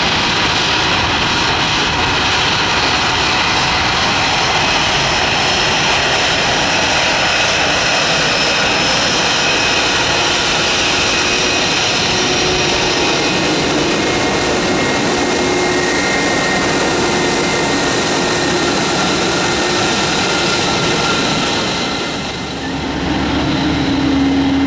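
Airbus A319's twin jet engines running at taxi power close by: a steady rush of noise with several high whining tones on top. The level dips briefly about 22 seconds in.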